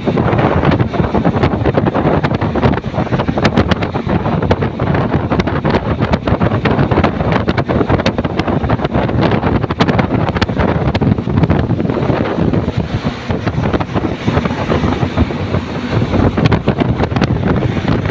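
Wind buffeting the microphone of a moving motorcycle, a loud steady rush of wind and road noise with constant crackling gusts.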